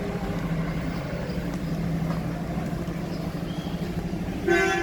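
A steady low hum of running machinery, cut near the end by a brief, loud single-tone horn toot.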